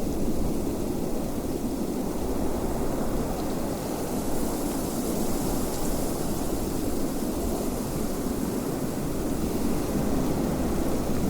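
Wind blowing steadily: a low, even rushing that holds at the same level throughout, with no gusts or breaks.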